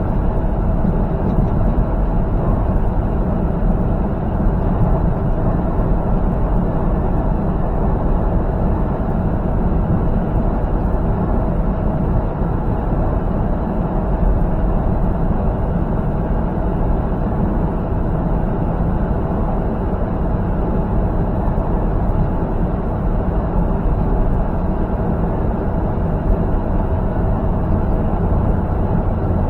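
Semi truck's diesel engine and road noise heard from inside the cab while cruising on the highway: a steady drone with no change in pace.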